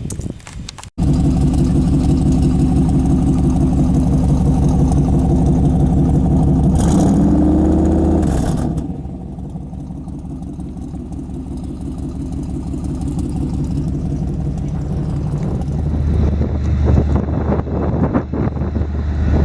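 1979 Chevy truck's engine running steadily. About nine seconds in the note drops back, then builds again gradually as the truck gets under way.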